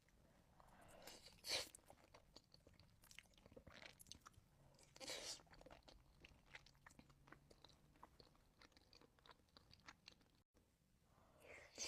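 Close-miked eating sounds: faint, steady chewing with small wet mouth clicks, and a louder crunchy bite about a second and a half in and another around five seconds.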